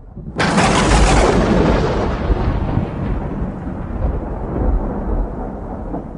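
A thunderclap in a rainstorm: a sudden sharp crack about half a second in, then a long rolling rumble that slowly fades.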